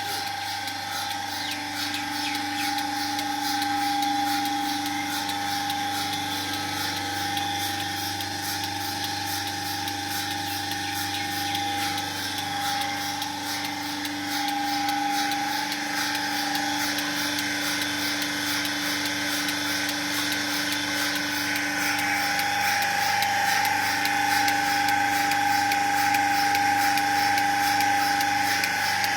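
Machinery running steadily, a continuous motor whine in two steady tones over a fast, even pulsing, with no break or change in speed.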